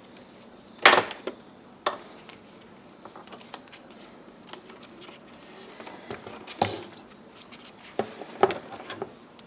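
Hands working on car interior trim, with a few sharp clicks and knocks of hard plastic parts. The loudest knock comes about a second in, and several more follow in the second half.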